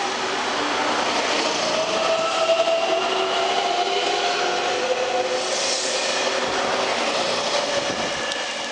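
Electric local train running past along the platform and picking up speed, its motors whining over the rumble of the wheels. The whine climbs slightly in pitch, and the sound fades near the end as the last car goes by.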